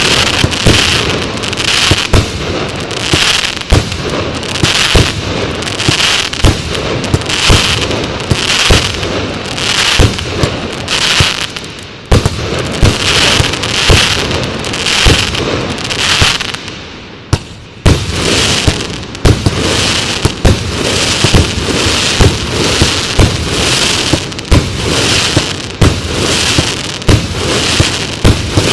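Fanned fireworks battery (Show Box 2) firing shot after shot: sharp launch bangs come roughly every second over continuous crackling. There are brief lulls about twelve and seventeen seconds in.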